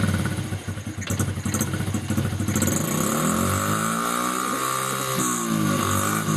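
Small engine of a child's mini motorbike running rough and uneven on too much choke, then revving up and falling back to a lower speed over about three seconds.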